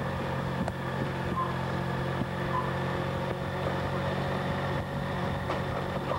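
Motorcycle engine running steadily at an even, low speed, a constant hum with no revving.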